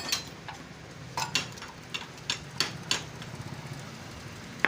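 Sharp metal clinks and taps of tools and parts while a motorcycle rear sprocket and its bolts are handled, about eight separate knocks spread through, over a low steady hum.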